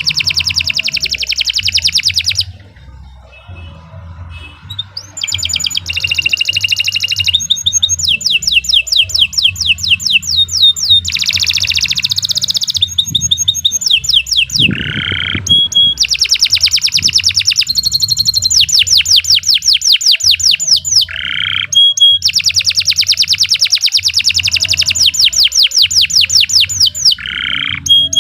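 Domestic canary singing a long, continuous song of rapid trills and rolls, switching to a new phrase every second or two. There is a brief pause about two and a half seconds in.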